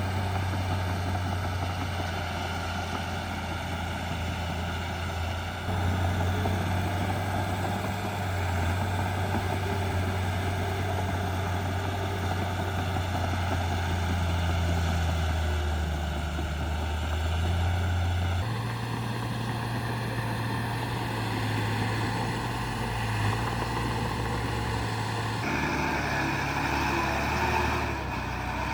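Diesel engines of heavy earthmoving machinery running steadily with a deep, even hum. The sound changes abruptly about two-thirds of the way through and again near the end.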